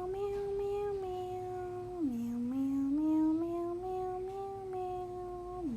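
A high voice humming a slow, wordless lullaby-like melody: each phrase climbs step by step, holds, then drops back down, starting again about two seconds in and just at the end.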